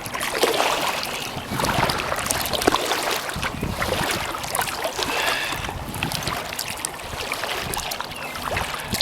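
Kayak paddling: the paddle blades dipping and splashing, with water trickling off them.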